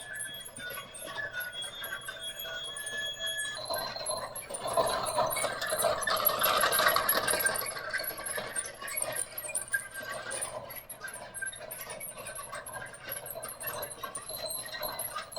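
Battery-powered toy train running on its track. For the first few seconds it plays electronic chime-like tones, then the rattle of the train grows louder about five seconds in and fades again as it passes.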